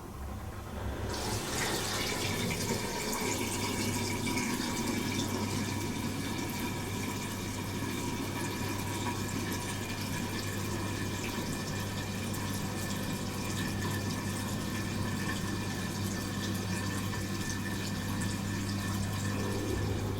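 Bosch Serie 4 SMS46MW05G dishwasher running its wash cycle: water spraying and splashing inside the tub over a steady pump-motor hum, the spray starting about a second in.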